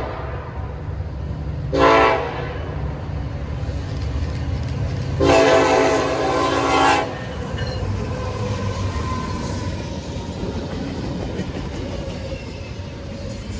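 A diesel locomotive's multi-tone air horn blows a short blast about two seconds in, then a longer blast of nearly two seconds. The pattern fits the end of a grade-crossing signal. Under the horn, the train runs steadily past with a low rumble and some wheel clatter.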